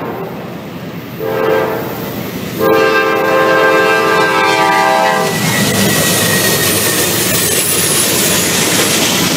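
Norfolk Southern diesel locomotive's air horn sounding for a grade crossing: a short blast about a second in, then a longer, louder blast. After the horn stops, the loud rumble of the lead locomotives' engines and wheels passing close by.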